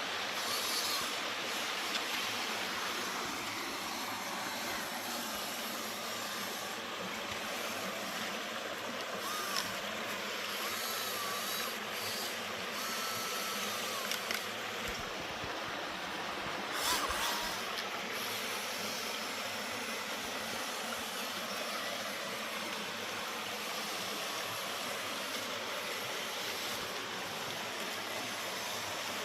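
Steady rushing of flowing creek water, with a few short rising and falling whines from a radio-controlled crawler truck's small electric motor partway through and a brief clatter near the middle.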